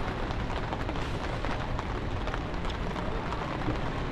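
Steady rainy city-street noise: an even hiss of rain and wet traffic, with low wind rumble on the microphone.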